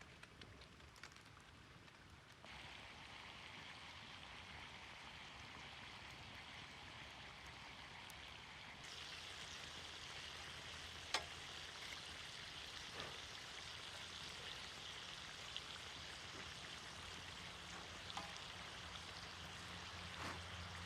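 Meat and offal frying in a pan: a steady sizzle that gets louder in two steps, with a few sharp pops and clicks, one of them much louder than the rest.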